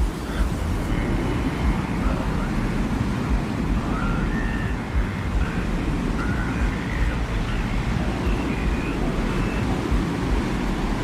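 Desert wind soundscape: a steady low rumble of wind that swells slightly in gusts. Faint, short high tones come and go above it.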